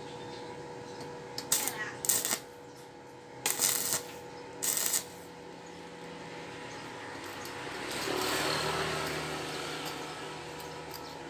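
Four short metal clatters, like steel pieces being handled, over a steady faint hum, followed about eight seconds in by a broad rushing noise that swells and fades.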